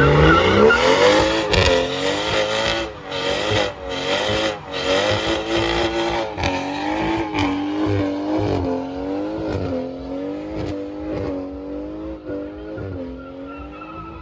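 A high-performance car engine revving hard: its pitch climbs at the start, then swings up and down again and again with brief cut-outs, and the sound gradually fades away.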